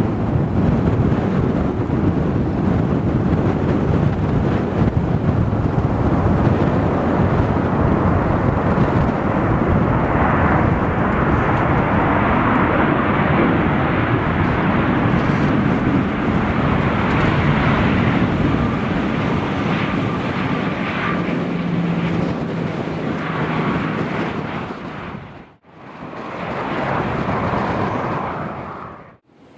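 Jet airliner engines running loud, mixed with strong wind buffeting the microphone. A faint steady whine sits in the roar past the middle. The sound drops out abruptly twice near the end.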